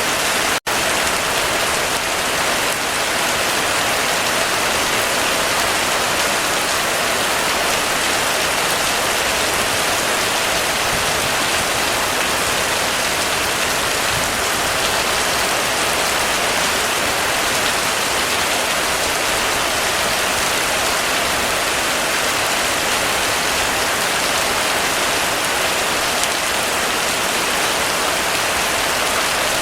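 Heavy rain falling steadily, a dense, even hiss of drops on surfaces, with a split-second drop-out in the sound about half a second in.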